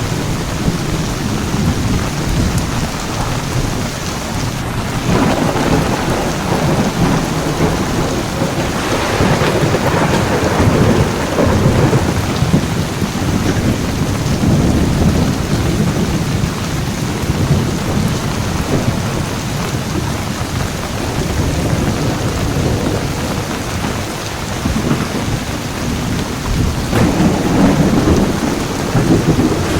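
Heavy rain falling steadily, with low rolling thunder swelling up about five seconds in, again around ten seconds, and near the end.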